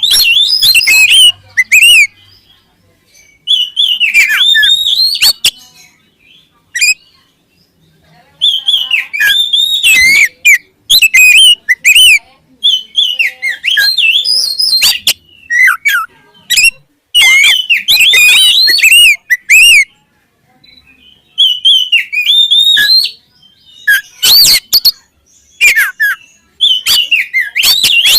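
Oriental magpie-robin (kacer) singing loud, varied whistled phrases, each a second or two long, with short pauses between them.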